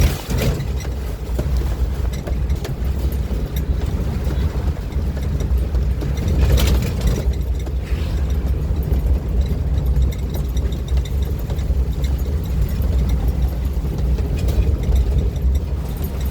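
Strong wind buffeting the microphone in a heavy rainstorm: a steady low rumble under the hiss of rain, with a stronger gust about six and a half seconds in.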